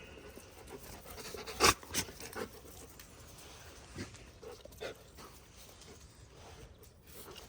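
A dog panting, with a sharp knock about a second and a half in, the loudest sound, and a few fainter knocks after it.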